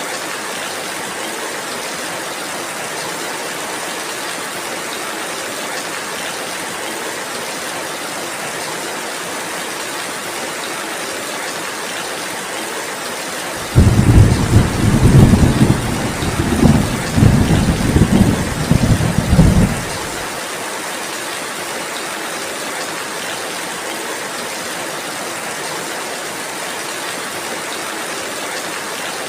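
Steady rainfall, with a loud rumble of thunder that starts suddenly about halfway through and rolls on in several surges for about six seconds.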